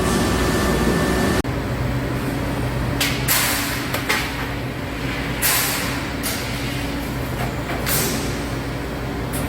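Steady low machine hum in a metalworking shop, broken by about five short bursts of hiss.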